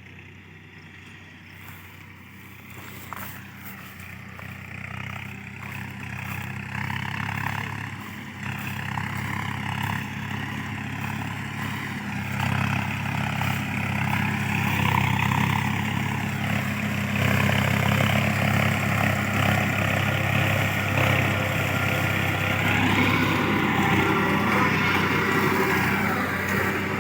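Tractor diesel engine driving a mulcher that is shredding brush, a steady engine hum under a coarse grinding noise. It grows louder over the first twelve seconds or so, then holds steady.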